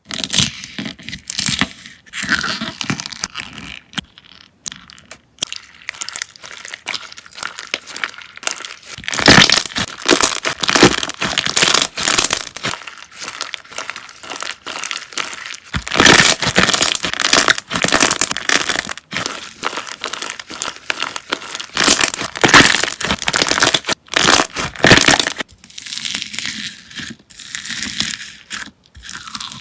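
Slime being squeezed and pressed by hand, giving a dense run of crackling clicks in uneven bursts, with louder surges about a third of the way in, around the middle, and again later on.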